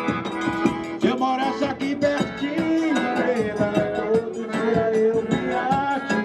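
Live band music: an instrumental passage between sung verses of a Brazilian folk song, a melody line over steady shaker-like percussion.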